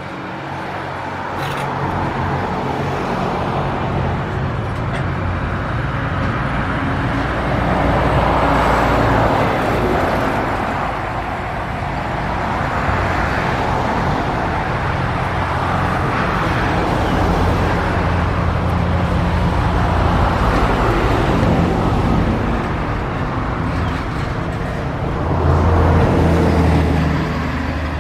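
Loaded container wagons of a freight train rolling past, a steady rumble of steel wheels on rail that swells and fades every few seconds as the wagons go by. Near the end a bus on the adjacent road adds a louder, low engine rumble.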